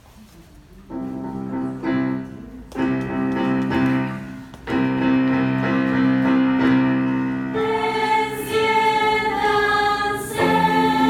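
Youth choir singing held chords in several parts, starting about a second in; higher voices join about two-thirds of the way through.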